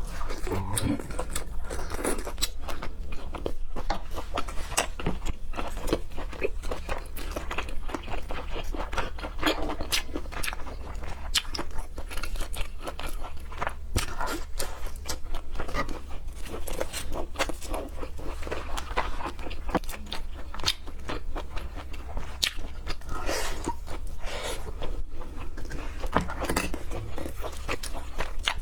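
Close-miked eating of raw seafood: continuous chewing and biting with many irregular wet clicks and crunches, over a steady low hum.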